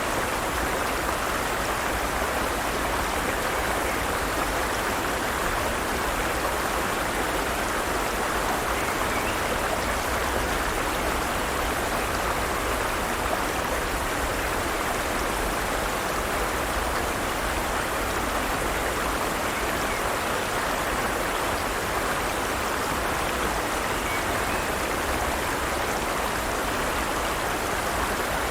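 Forest stream: water running steadily over rocks, an even rushing babble with no changes.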